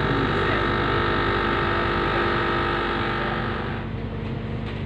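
Budapest M2 metro train running on the rails with a steady whine of several tones over a low rumble; the whine dies away about four seconds in as the train comes to rest at the station.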